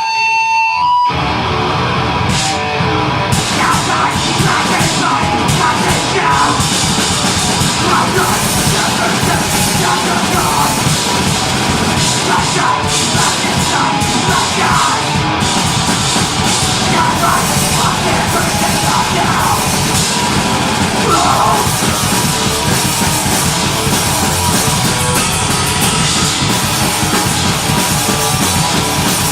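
Deathgrind band playing live at full volume: heavily distorted guitars, bass and fast drums with a screamed vocal. A single held note rings for about a second before the whole band crashes in.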